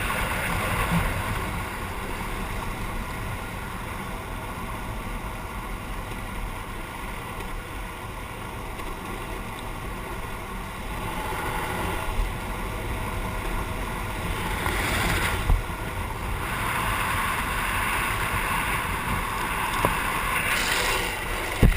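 Steady rushing noise with wind buffeting the microphone, swelling louder about two-thirds of the way in, with a short sharp knock just before the end.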